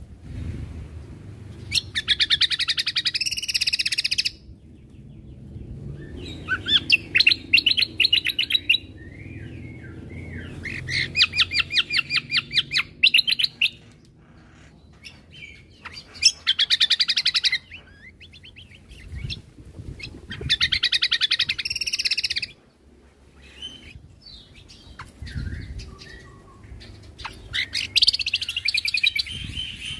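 Cucak kombo (kecial kombo) songbird singing in fast rapid-fire trills. It gives about six bursts of quickly repeated high notes, each a second and a half to two and a half seconds long, separated by short pauses. A faint low hum runs underneath.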